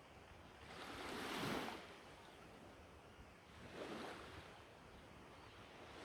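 Black Sea waves washing in on the shore: two swells of surf, about two and a half seconds apart, the first and louder about a second and a half in.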